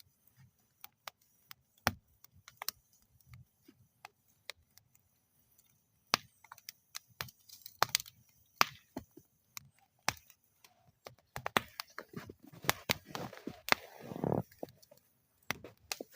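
Wood fire in a metal fire bowl crackling, with irregular sharp pops and snaps that come thicker in the second half and a short burst of hissing flame near the end.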